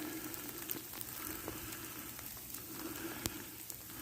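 Freezing rain falling: a faint steady hiss with scattered light ticks of drops striking.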